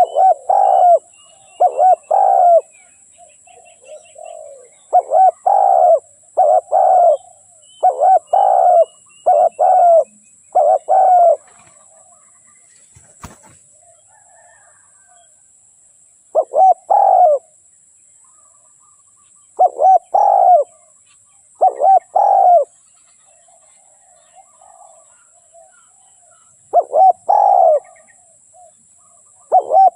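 Spotted dove cooing: loud, repeated phrases of two or three coos with pauses between them, a long gap in the middle. Faint chirps of small birds and a steady high-pitched hiss sit behind it.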